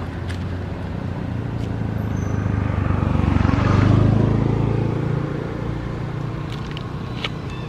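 A motor vehicle's engine passing by, its drone growing louder to a peak about four seconds in and then fading away.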